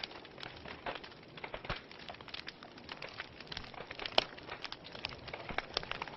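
Wood fire crackling and popping in a fireplace: a dense run of irregular small snaps over a soft hiss, with one sharper pop about four seconds in.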